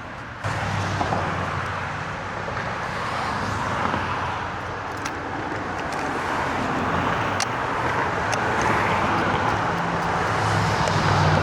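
Road traffic: a steady rush of passing cars, with a vehicle's low engine hum coming in about half a second in and growing louder toward the end. A few faint sharp clicks sound over it.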